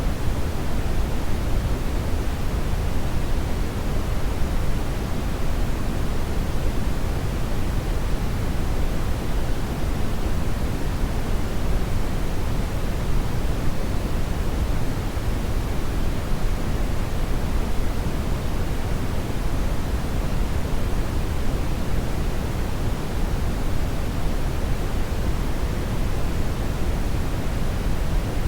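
Hair dryer blowing continuously: a steady, even rushing noise, heaviest in the low end, with no change in pitch or level.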